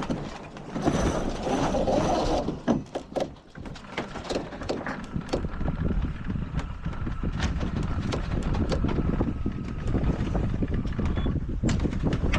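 Sailboat gear during a tack: a rough rushing noise in the first couple of seconds, then a long run of sharp clicks and knocks from deck hardware, over steady wind noise on the microphone.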